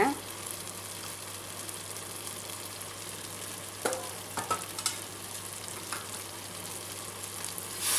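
Chicken masala sizzling steadily in an aluminium pressure cooker, with a few light clinks about four to six seconds in. A louder hissing rush begins right at the end as hot water starts going into the hot pan.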